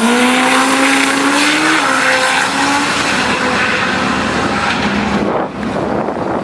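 Drag car engine under hard acceleration. Its pitch climbs, drops once at a gear change about two seconds in, then fades away after about three seconds, leaving a steady rushing noise.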